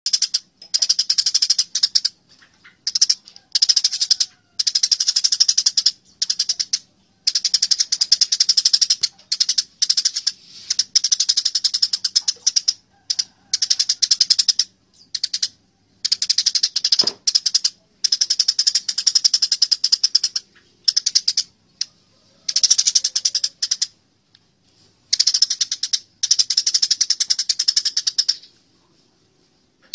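Eurasian tree sparrows (burung gereja) fighting: fast, high-pitched chattering in bursts of a second or two with short breaks between.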